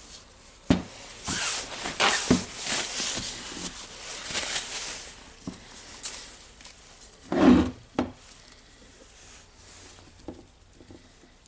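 Hand-work noises as grease is packed into a Makita DHR202 rotary hammer's gear housing: a few seconds of rubbing with light clicks, then one loud knock about seven and a half seconds in, and quieter handling after.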